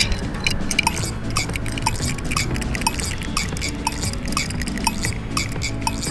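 Small toy cars clinking and clattering against each other and a plastic playset as they are handled, with light background music and a short blip repeating about twice a second.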